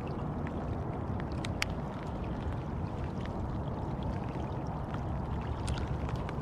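Light rain on a pond around a float tube: a steady rushing noise, heaviest low down, with a few scattered light ticks.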